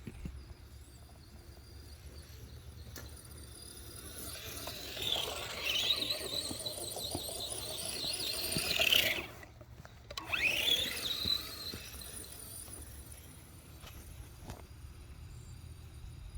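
Electric motor and drivetrain of an Arrma Typhon RC car whining under throttle: one longer run that builds and then cuts off about nine seconds in, then a second short burst about a second later.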